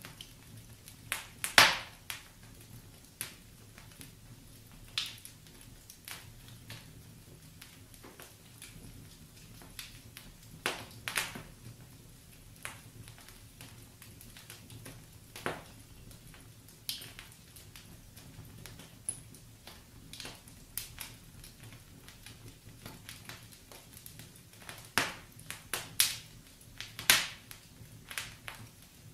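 Wood fire burning in a fireplace, the logs crackling with sharp irregular pops, some in quick clusters, over a faint low rumble of the flames.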